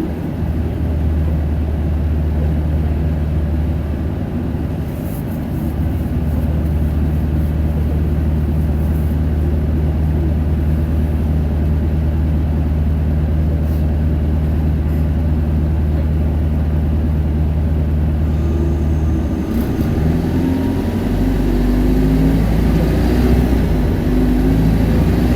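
Isuzu Erga city bus heard from inside, its 4HK1 four-cylinder diesel droning steadily under way and revving high around eighteen seconds in. About nineteen seconds in the engine note changes, and it settles into a deeper, louder drone near the end.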